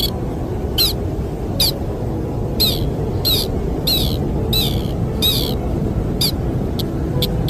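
A bird the uploader calls the sintar repeats short, falling call notes about once or twice a second, which turn shorter and quicker near the end. A steady low rush of wind runs underneath.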